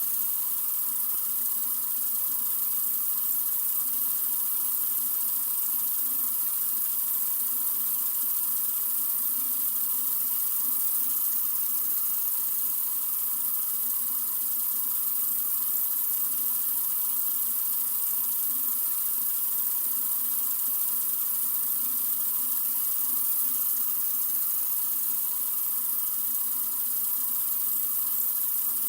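Sink faucet running in a steady stream, an even hiss strongest in the highs that does not change.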